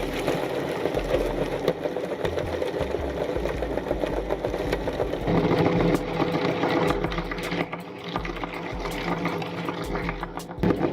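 Electric meat grinder running, its motor and auger churning with a fast, even rattle; a steadier hum sets in about five seconds in.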